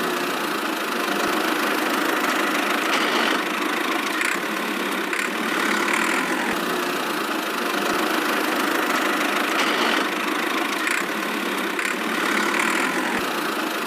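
A small motor running steadily with an even whirring mechanical noise, without pauses or changes in speed.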